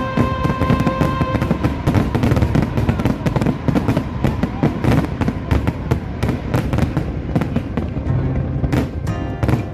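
Fireworks going off in rapid succession, a dense stream of bangs and crackles, over loud music played along with the show.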